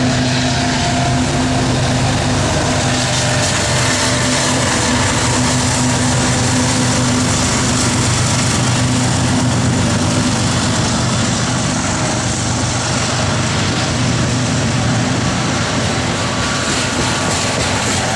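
Freight train of coal hopper cars rolling past close by: steady rumble and clatter of steel wheels on the rails. A low engine drone, typical of a diesel locomotive, fades away over the first five seconds or so.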